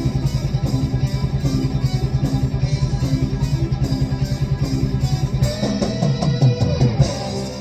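Fuzzy, distorted electric guitar playing a fast, evenly picked heavy-metal riff. About five and a half seconds in, a higher line with bending notes joins it.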